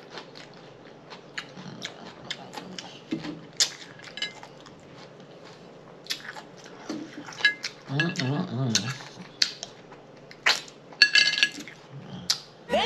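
Close-up mukbang eating sounds: chewing and wet lip-smacking on a cream-cheese-stuffed jalapeño, with many small sharp mouth clicks and a brief voiced murmur about eight seconds in.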